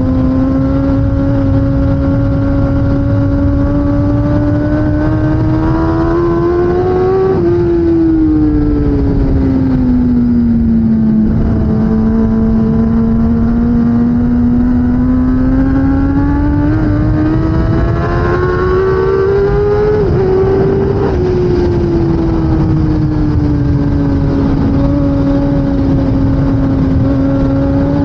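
2016 Kawasaki ZX10R superbike's inline-four engine under way. Its pitch climbs gradually for several seconds and then falls away, twice.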